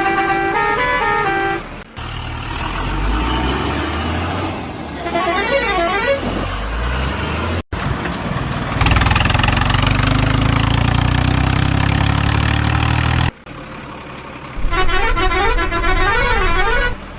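A string of vehicle sound effects with abrupt cuts between them. It opens with a horn playing a short up-and-down tune, then a heavy truck engine runs steadily, loudest in the middle, and near the end the tune-playing horn sounds again.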